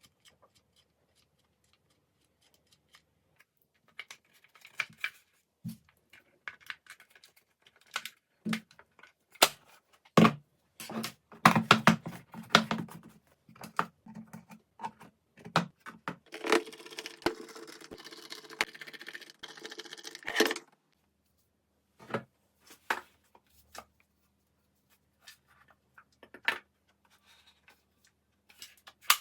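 Small wooden parts clicking and knocking as they are handled, with about four seconds of continuous scraping in the middle.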